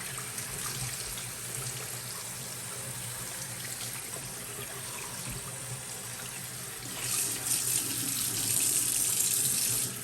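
Tap water running and splashing over a plastic washing-machine detergent drawer as it is rinsed clean, a steady hiss that gets louder about seven seconds in.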